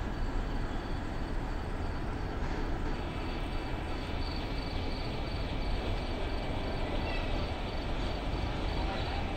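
Passenger train hauled by an electric locomotive pulling into a station: a steady low rumble with a faint high whine over it.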